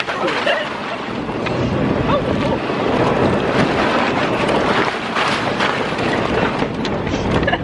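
Vehicle driving along a rough, slippery back-country track: engine and tyre noise with constant rattling, and wind buffeting the microphone.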